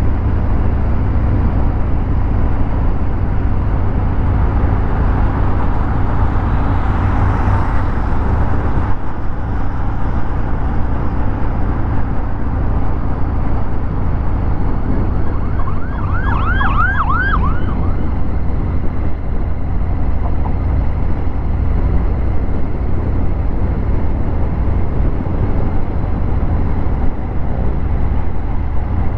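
Harley-Davidson Fat Bob 114's Milwaukee-Eight V-twin running on the move through a Vance & Hines Hi-Output 2-into-1 exhaust. About sixteen seconds in, a short siren warbles up and down several times in quick succession.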